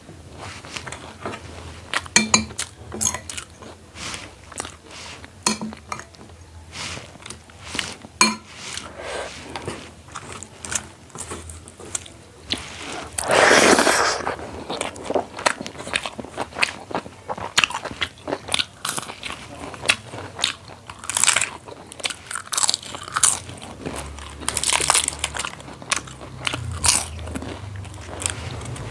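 A person eating close to the microphone: chewing with many sharp, crisp crunches, and one louder, longer crunch about halfway through.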